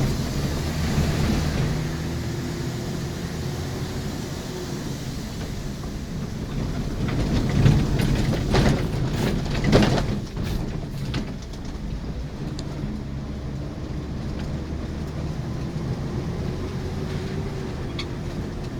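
Intercity bus heard from inside the cab as it drives along: a steady engine and road drone with a faint whine that rises and falls twice. About halfway through comes a short spell of knocks and rattles.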